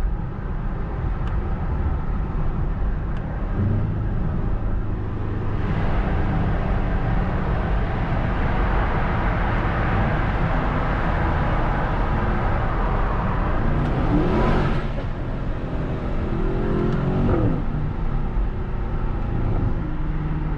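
Mercedes-AMG S63's twin-turbo V8 and exhaust heard from inside the cabin while the car drives through a tunnel. The engine pulls harder from about five seconds in, and the revs climb to a peak about two-thirds of the way through before falling away, with another short rise and fall soon after.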